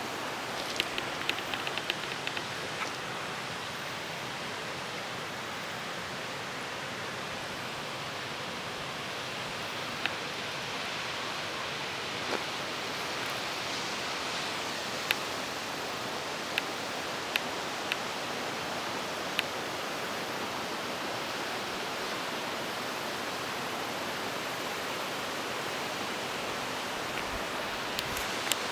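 Waterfall: steady rushing of falling water, with a few short clicks scattered through it.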